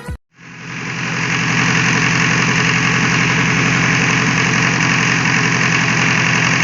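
Lister Petter LPWS4 four-cylinder diesel engine running steadily at idle, fading in over about the first second.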